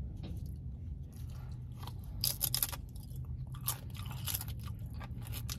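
A person chewing food, with a run of crisp crunching bites that cluster about two seconds and about four seconds in, over a steady low hum.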